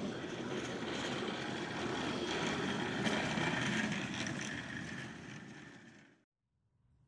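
Steady rumble of a moving train that fades out and drops to silence about six seconds in, with a faint sound returning near the end.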